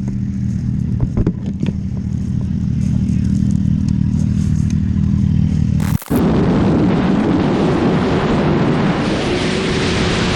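Motorcycle engine running at a steady speed, with a few sharp clicks. After a cut about six seconds in, a louder rush of wind and engine noise follows, with a rising engine tone near the end.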